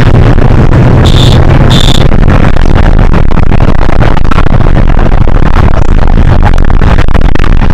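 Hino HS8JRVL city bus heard from inside while running: a loud low drone of diesel engine and road noise, with rattles, and two short high beeps about a second in.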